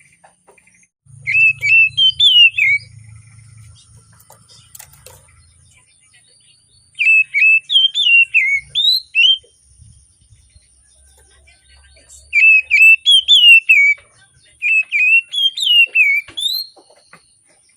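Oriental magpie-robin singing: four loud bursts of quick, warbling whistled phrases that rise and fall, with short pauses between them.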